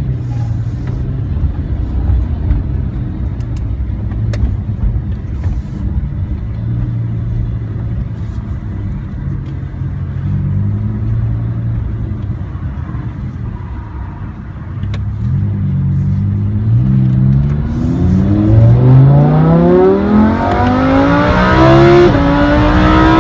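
Lamborghini Huracán LP610-4's 5.2-litre naturally aspirated V10 pulling at low revs for about fourteen seconds. It then accelerates hard, the engine note climbing steeply in pitch and growing louder, with several climbing runs in a row as it shifts up through the gears.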